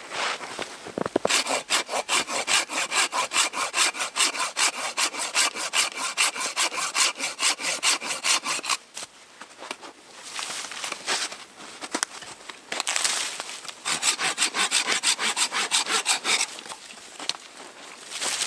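Hand saw cutting through wood in fast, even back-and-forth strokes, in two spells: one from about a second in to about nine seconds, and a shorter one a few seconds later.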